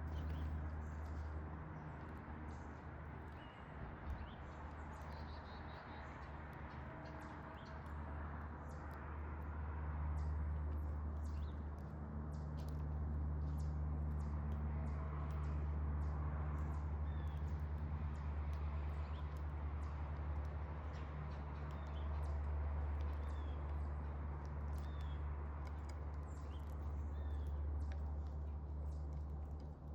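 Small songbirds giving short high chirps, every second or two in the second half, over a steady low hum that is the loudest sound throughout. Faint scattered clicks are heard as well.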